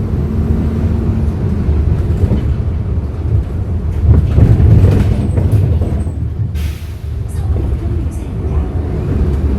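Hyundai Green City CNG city bus engine running under way, a steady low rumble that swells for a moment around four to five seconds in. A short burst of air hiss comes about seven seconds in.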